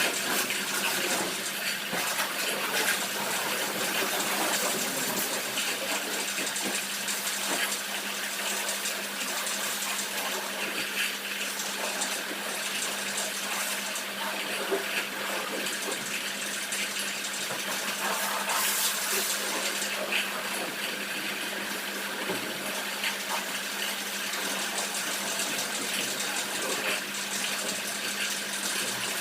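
Pressure washer spraying water onto a car: a steady hiss of spray with a steady low hum underneath.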